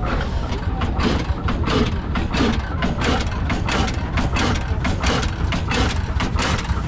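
1897 Hornsby-Akroyd hot-bulb oil traction engine running, a steady low hum with sharp mechanical clicks about three or four times a second.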